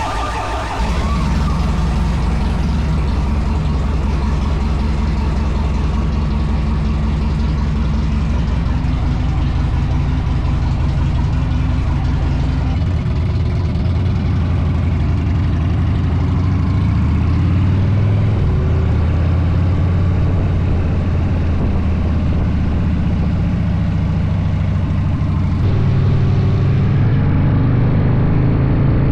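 Harley-Davidson Dyna's V-twin engine running steadily while under way, its pitch rising near the end as it accelerates.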